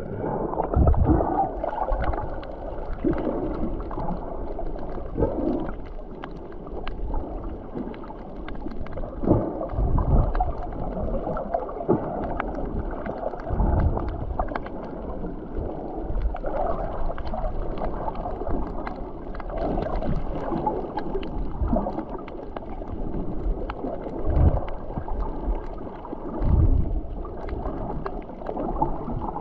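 Water rushing and gurgling along the hull of a sailboat under way, with low rumbling gusts of wind on the microphone every few seconds.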